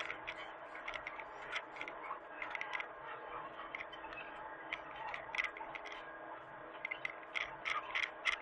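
A Hitachi mini excavator's engine runs steadily, with rapid, irregular clicking and scraping over the hum.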